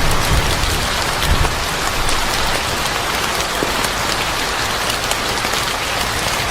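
Steady rain falling, a dense hiss of many drops, with a low rumble of thunder dying away in the first second or so.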